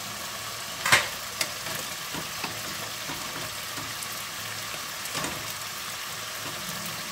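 Diced chicken sizzling steadily in butter in a wok on a gas burner. A sharp clank about a second in is the loudest sound, with a softer knock about five seconds in, as a wooden spatula works in the pot of pasta.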